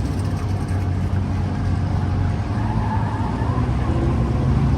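Car engine running steadily at low speed, a low even hum.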